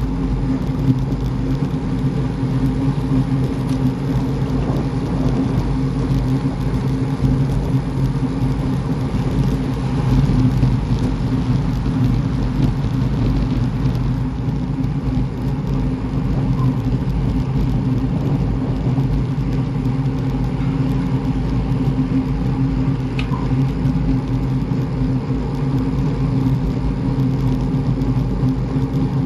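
Steady drone of a vehicle driving at an even speed, with engine hum and road rumble.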